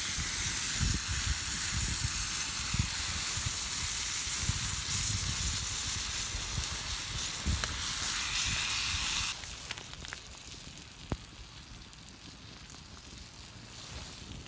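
Food frying in a pan, sizzling with a loud steady hiss. About two-thirds of the way through, the sizzle drops suddenly to a much quieter level, leaving a few faint ticks.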